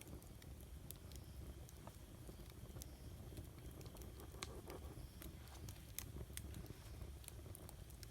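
Wood campfire burning, with irregular faint crackles and pops from the burning wood over a low steady rumble.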